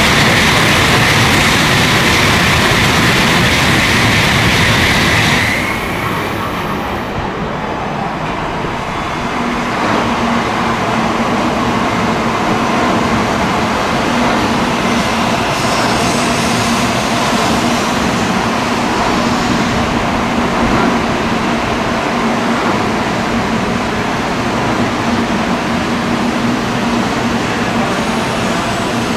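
N700A Shinkansen train pulling into the station: loud running noise for the first few seconds, which drops suddenly to a quieter, steadier hum. From about nine seconds in, a low steady tone is held under that hum.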